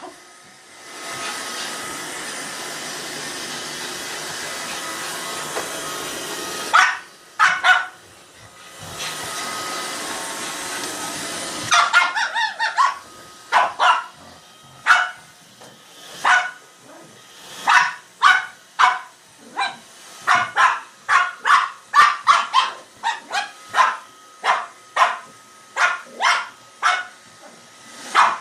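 Roomba robot vacuum running with a steady whir, broken by a pair of barks, until it stops about twelve seconds in. A dog then barks repeatedly, about one to two barks a second.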